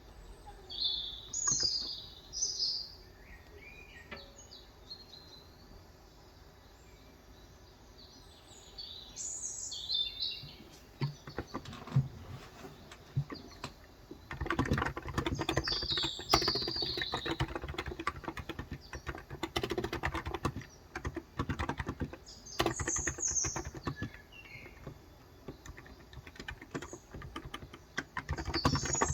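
Typing on a COX Endeavor electro-capacitive (Topre-style) 35 g tenkeyless keyboard: a few scattered keystrokes, then steady rapid typing from about halfway through. Birds chirp in short phrases several times over it.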